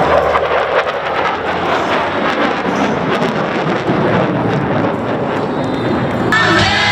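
Loud, steady jet roar from USAF Thunderbirds F-16 fighter jets flying over. Music with singing starts near the end.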